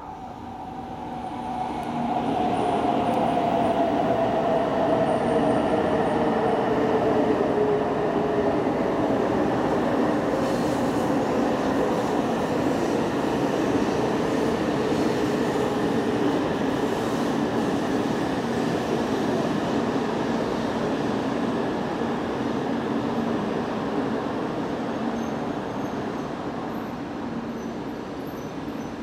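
Tohoku Shinkansen Yamabiko train running into the station and slowing: a rushing run of wheels and motors swells over the first two seconds and then holds, fading slightly, while a motor tone slides down in pitch as the train slows.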